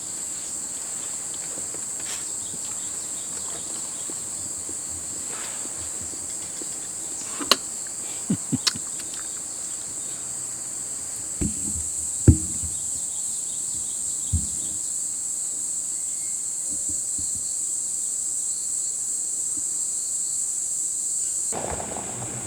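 Steady, high-pitched chorus of chirping insects, with a few scattered knocks and clicks, the loudest about twelve seconds in. The chorus weakens abruptly near the end.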